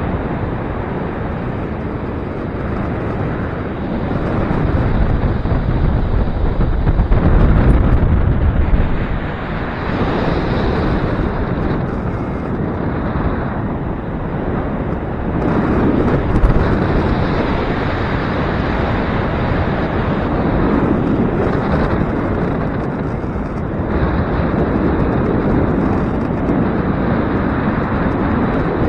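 Gusty wind buffeting the microphone, a rumbling rush that swells and eases with the gusts, strongest about seven to nine seconds in.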